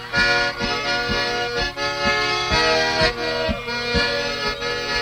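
Accordion playing an instrumental break in a live song: held chords that change every half second or so, over a steady low beat.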